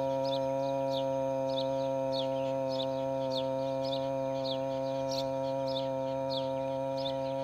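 A bird's short, falling chirps repeating a bit under twice a second over a steady, unchanging low drone held on one pitch.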